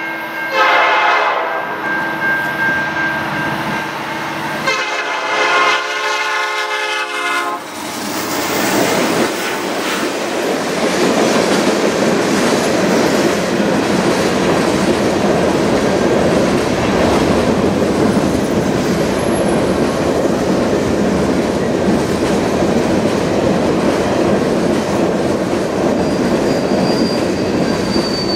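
The air horn of CN SD75I locomotive 5667 sounds twice as it approaches: a short blast about half a second in, then a longer one from about five to seven and a half seconds. From about eight seconds on, the locomotive and the loaded ballast hopper cars of a rock train pass close by with a steady rolling noise of wheels on rails, and a faint brief wheel squeal near the end.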